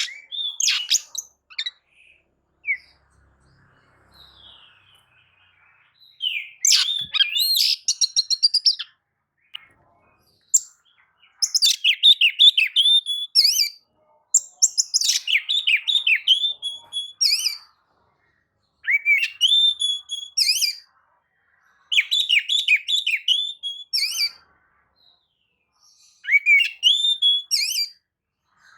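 Oriental magpie-robin singing in loud phrases of rapid, varied whistled notes, each phrase one to three seconds long, with short pauses between them.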